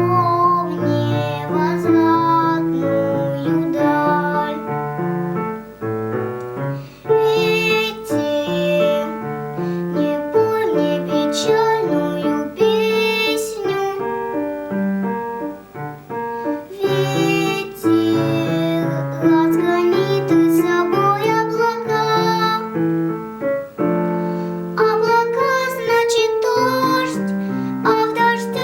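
A young girl singing a slow song in phrases over piano accompaniment, with stretches where only the piano plays between her lines.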